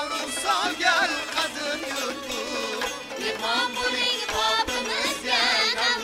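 Folk music with a singer whose voice wavers through quick, ornamented turns in the melody.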